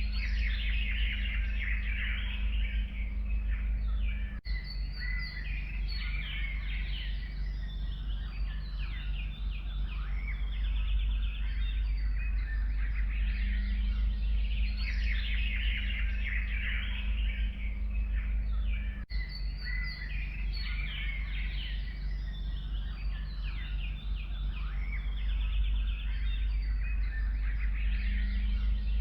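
A chorus of forest songbirds: many overlapping chirps, trills and warbles, over a steady low rumble. The sound cuts out briefly twice.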